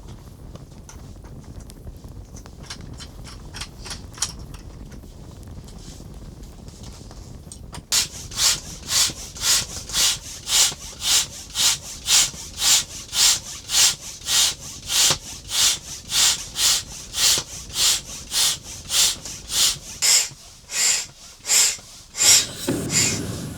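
Hand saw cutting through wood in steady back-and-forth strokes, about two a second, faint at first and much louder from about a third of the way in.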